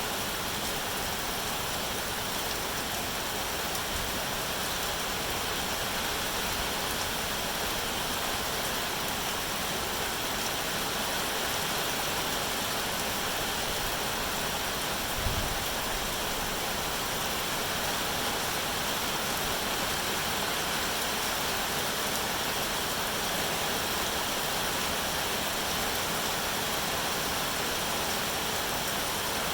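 Steady rain falling, an even hiss with no change in strength, with one brief low thump about halfway through.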